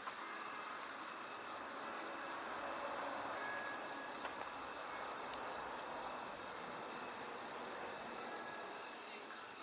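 Crickets chirping: a steady high trill with a pulsing chirp about once a second, and a few faint crackles from a wood campfire.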